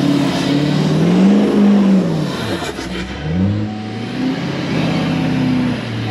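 Vehicle engine accelerating, its pitch climbing, dropping sharply at a gear change about two and a half seconds in, then climbing again and settling.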